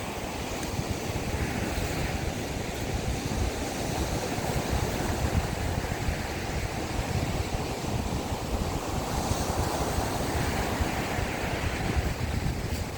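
Sea waves breaking and washing up the beach in a strong monsoon wind, with wind buffeting the microphone. The wash swells up about two seconds in and again near the end.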